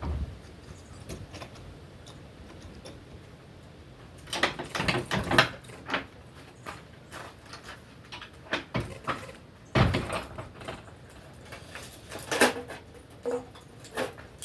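Scattered knocks, clicks and rattling of objects being handled, with a single louder thump about ten seconds in.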